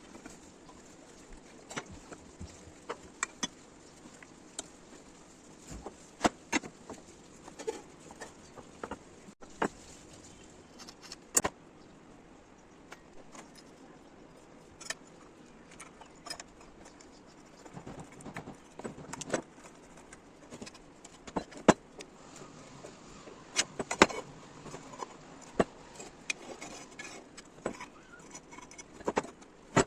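Steel parts and hand tools clinking and knocking together in irregular sharp strikes, a few at a time with short gaps between.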